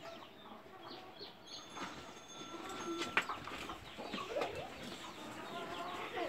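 Farmyard birds calling and chirping, many short repeated calls, with a single sharp knock about three seconds in.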